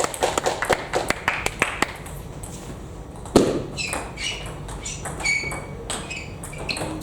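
Table tennis ball clicking rapidly off bats and table in a rally, then a single louder thud about three and a half seconds in, followed by short high squeaks like sports shoes on the hall floor.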